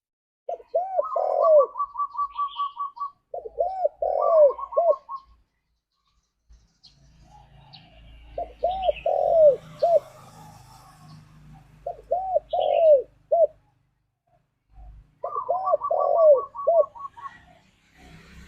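Spotted dove cooing in five phrases of three to four arched notes, with a quick run of short higher notes over some of the phrases.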